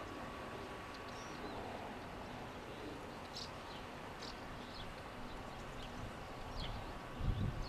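Outdoor ambience: a steady background rumble with scattered short, high chirps of small birds, and a low thump near the end.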